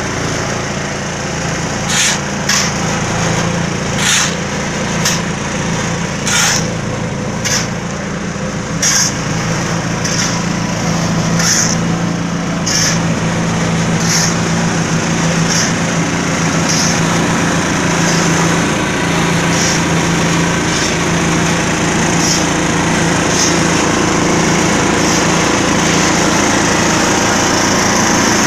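Diesel engine of a concrete mixer running steadily. A short rasping sound from the turning mixer repeats about every 1.3 seconds and grows fainter in the second half.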